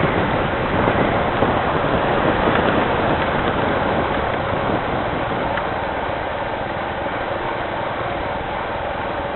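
Rain falling, a steady even noise that eases a little in the second half.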